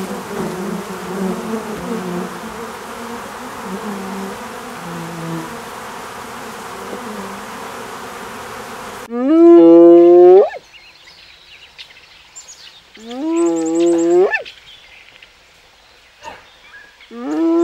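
A honeybee swarm buzzing steadily, cut off sharply about nine seconds in. Then a spotted hyena calls three times a few seconds apart, loud whoops that rise in pitch and then hold.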